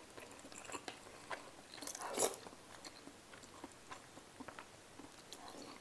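Close-miked chewing and small mouth sounds of a person eating, with scattered faint clicks and a louder chew about two seconds in.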